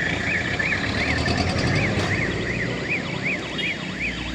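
A warbling electronic alarm, its pitch rising and falling about three times a second without a break, over a low engine rumble.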